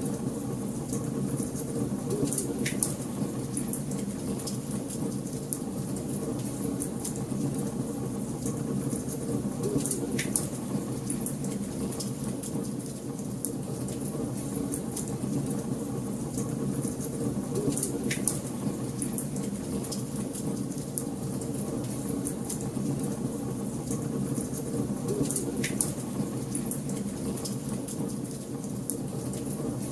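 Wood fire burning in a fireplace: a steady rush of flames with constant fine crackling and four sharper pops, about 7 to 8 seconds apart.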